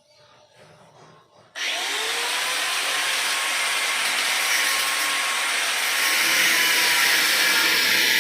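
A power tool switches on abruptly about a second and a half in, its motor briefly spinning up, then runs steadily and loudly.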